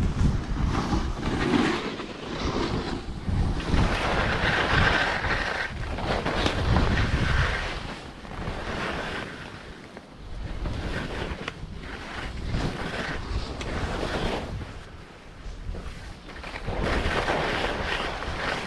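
Wind buffeting the microphone in gusts, a rough rushing noise that swells and fades every few seconds.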